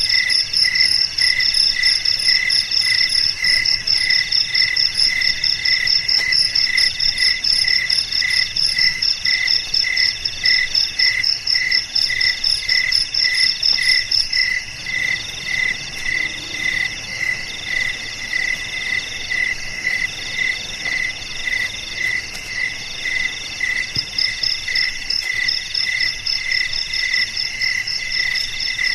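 Several crickets chirping at once in overlapping steady rhythms: a lower chirp repeating about twice a second, a trill in runs of about a second, and a fast high-pitched chirp that stops about halfway through and comes back near the end.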